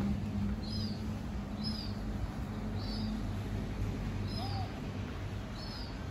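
A small bird repeating a short chirp about once a second, over a steady low hum.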